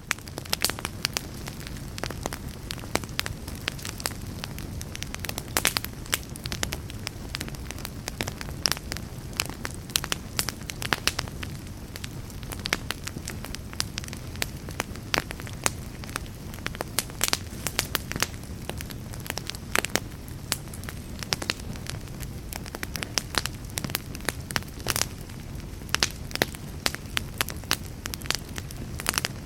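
Log fire burning in a fireplace, crackling steadily with frequent sharp, irregular pops and snaps over a low, even rush of the flames.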